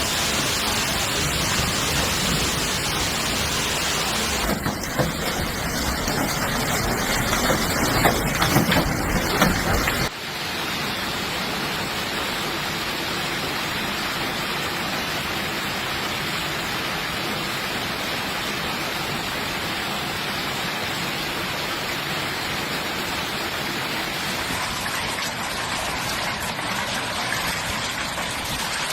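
Hailstorm: a dense, steady hiss of hail and rain falling. Sharp separate hits stand out between about four and ten seconds in. After an abrupt change about ten seconds in, a smoother, thinner hiss follows.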